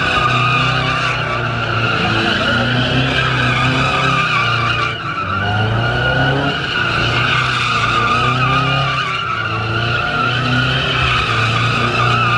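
A car sliding sideways in a donut or drift with its tyres squealing steadily, while the engine is revved up and down in repeated surges.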